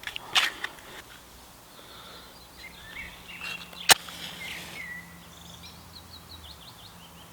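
Wild birds singing, short chirps and trills. A short scrape comes just after the start, and a single sharp click, the loudest sound, about four seconds in.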